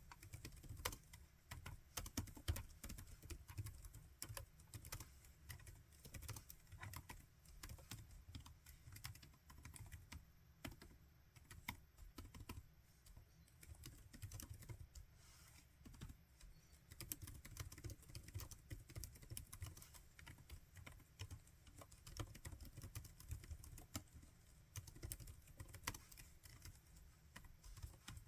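Laptop keyboard being typed on steadily, a dense, irregular run of soft key clicks with occasional louder keystrokes.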